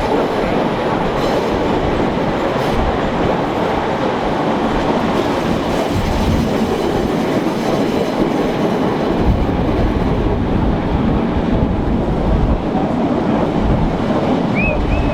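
A train on the Bernina line running along the track, a steady loud running noise of wheels on rails. Two short high tones come just before the end.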